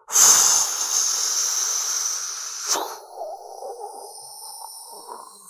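A person making a long breathy hiss with the mouth, imitating the roar of a hot-air balloon's burner. It is loud at first and fades over about three seconds into a softer hiss.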